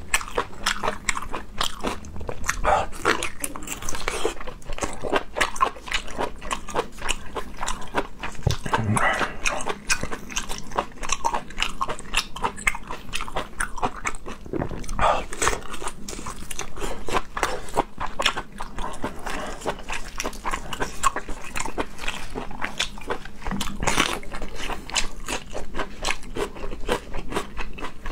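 Close-miked eating sounds: biting into and chewing glazed sausages, a dense stream of small wet clicks with a few louder bites.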